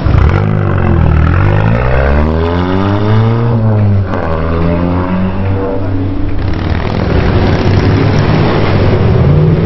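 A car engine revving: its pitch climbs slowly and drops back, then rises and falls again more briefly, with another rev starting near the end.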